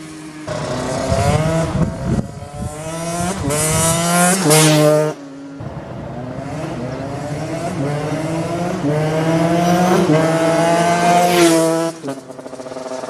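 KTM 125 two-stroke engine through a full HGS carbon exhaust, revving hard under acceleration. The pitch climbs, drops back about two seconds in, climbs again to a loud peak around four to five seconds, drops, then rises slowly for about six seconds before falling to a lower, steadier note near the end.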